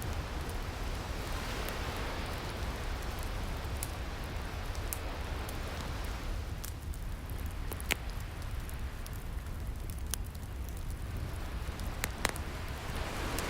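Ocean waves washing steadily over the crackle of a wood fire, with a few sharp pops from the fire, the loudest about eight seconds in. The wash of the waves eases off in the middle and swells again near the end.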